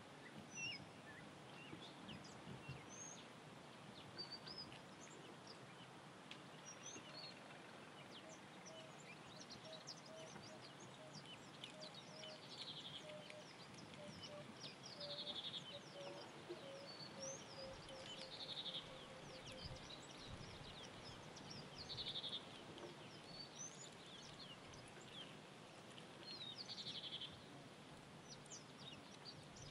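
Wild birds calling in bush. A short, buzzy song phrase repeats every three or four seconds, with scattered high chirps around it. In the middle a run of low hooting notes comes faster and faster before it fades out.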